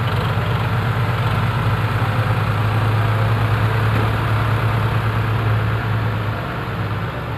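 Six-wheel dump truck's diesel engine running steadily at low revs, a deep even hum.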